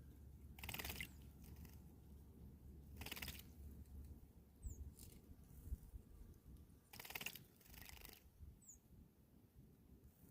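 Quiet outdoor ambience with two brief, thin, high chirps from a small bird, about four seconds apart. Short noisy bursts come every couple of seconds, and a low hum runs underneath.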